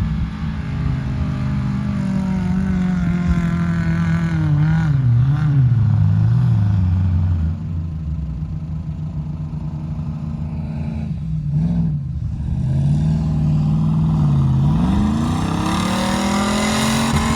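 Off-road 4x4's engine working under load, its revs holding steady, then wavering and dipping as the throttle is worked, and climbing again near the end.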